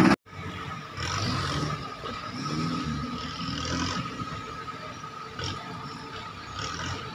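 A louder engine sound cuts off abruptly just after the start. Then an off-road 4x4's engine is heard revving up and easing off in uneven surges as it crawls over rocks in a shallow creek bed.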